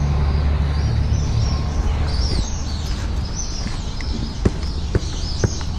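Birds chirping, many short high calls repeated over and over, over a steady low rumble. A few sharp taps come near the end.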